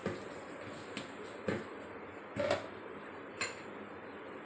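About five light, unevenly spaced knocks and clicks of a utensil against a microwave-safe tin while its sides are greased with butter.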